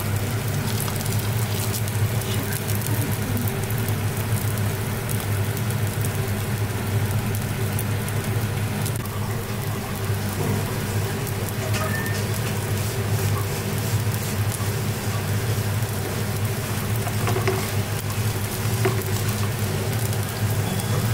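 Sticky rice pancake frying in hot oil in a flat pan, sizzling and crackling steadily over a low hum.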